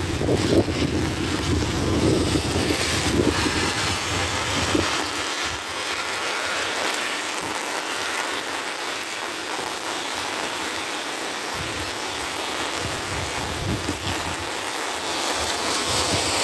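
Steady wind-driven rain from Hurricane Helene falling on wet pavement, with gusts of wind buffeting the microphone during the first few seconds.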